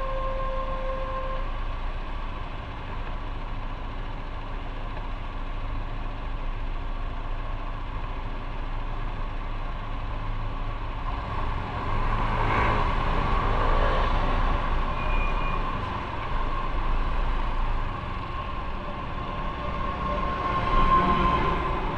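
Motorcycle riding through city traffic: a steady engine and road rumble. Louder traffic noise swells up about twelve seconds in and again near the end.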